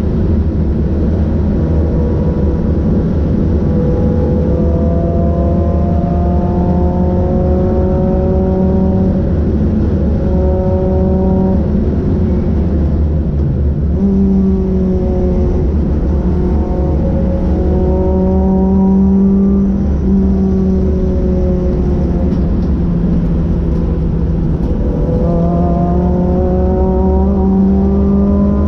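Renault Clio 182's 2.0-litre four-cylinder engine heard from inside the cabin under hard acceleration. It rises in pitch through each gear and drops back at every change, several times over, above heavy road and wind rumble.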